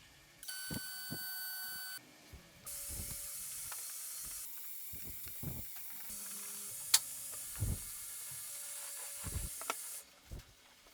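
Woodworking shop tool noise: a brief steady whine, then a long steady hiss with scattered knocks and one sharp click. The sound cuts in and out abruptly several times.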